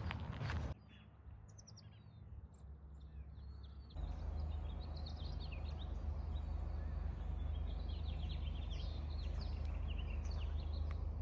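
Small birds chirping and twittering, many short high calls. Footsteps end just under a second in, and about four seconds in a steady low rumble starts suddenly beneath the birds.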